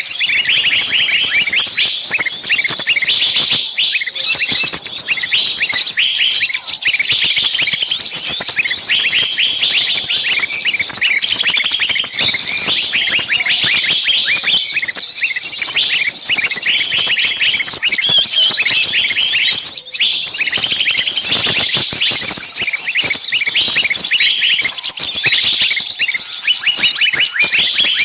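A dense, continuous chorus of many small songbirds chirping and shrieking at once, high-pitched and without pause. This is a bird-lure recording of small birds making a noisy, screaming commotion, like birds caught in a trap.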